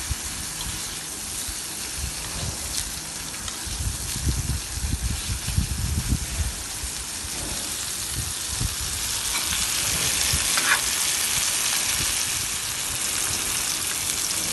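Thinly sliced chicken breast sizzling as it fries in oil in a hot pan, nearly cooked through. Some low knocks come about four to seven seconds in, and the sizzle grows louder about ten seconds in.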